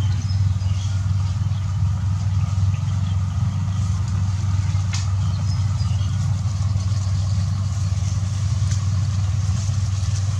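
A steady low mechanical hum, like an engine idling, with faint short high-pitched sounds over it and a single click about five seconds in.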